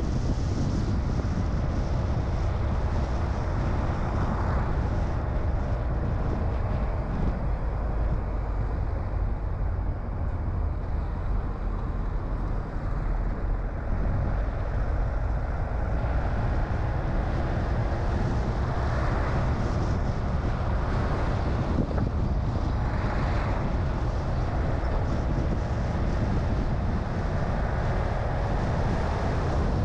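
A car driving on a road: a steady low rumble of engine and tyre noise with wind on the microphone. The pitch slowly shifts, and the sound swells briefly a few times.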